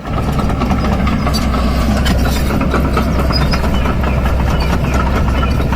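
Machinery running steadily, with a deep constant hum under a busy rattling noise and scattered clicks.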